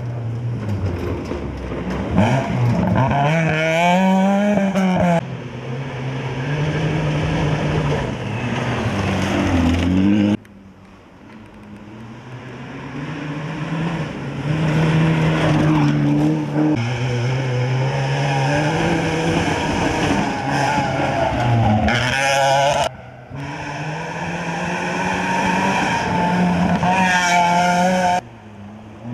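Volkswagen Polo rally car engine revving hard, its pitch climbing and dropping again and again through the gear changes. The sound breaks off abruptly three times as it switches to another pass.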